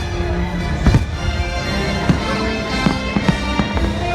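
Fireworks-show music playing loudly, with firework bangs cutting through it: a sharp one at the start and another just under a second in, then smaller pops every half second or so.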